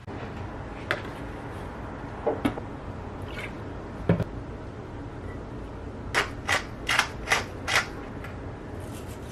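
A few scattered knocks, then a quick run of about six sharp clicks, roughly three a second, over a steady low background noise.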